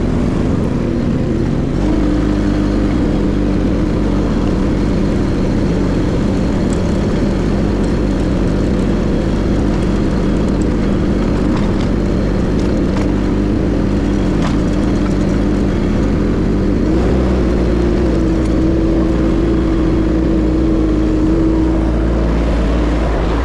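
Case TL100 mini skid steer's engine running steadily under load, its note shifting and the low end growing stronger about 17 seconds in.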